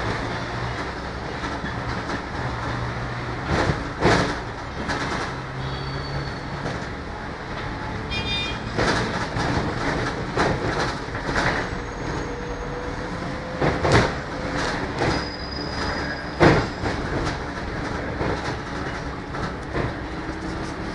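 Scania K94UB bus with its Scania D9C diesel engine running while the bus is under way. There is a steady drone of engine and road noise, broken every second or two by sharp knocks and rattles from the body as the bus goes over the road, the loudest at about 4 and 14 seconds in and again at 16 seconds.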